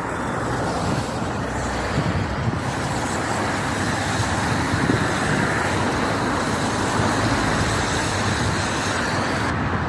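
Steady road traffic noise, a continuous rush of passing vehicles without distinct events.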